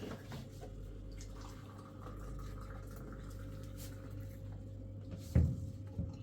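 Faint trickle and drip of water, with a sharp knock a little after five seconds in and a lighter knock just after.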